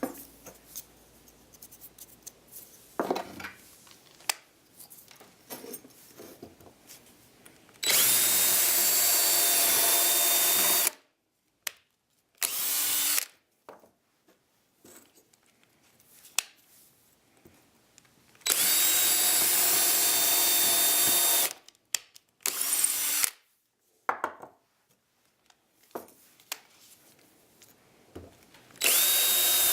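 Electric drill boring holes through 2x4 wood blocks: the drill runs in steady stretches of about three seconds, twice, each followed by a short second burst, and starts again near the end. Faint handling and knocking of the wood between runs.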